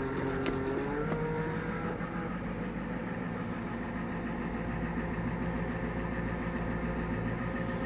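1994 Ford F Super Duty dump truck's 7.3 IDI diesel engine running at low speed from inside the cab while the truck is manoeuvred. The engine note rises a little about a second in, then holds steady.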